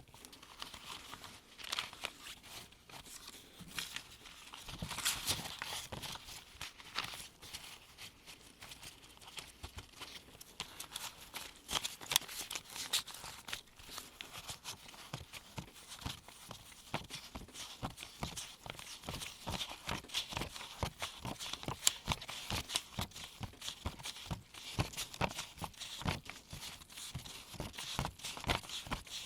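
US $1 paper bills handled with gloved hands and counted one by one onto a pile: a quick, irregular run of crisp paper snaps and rustles, coming faster in the second half.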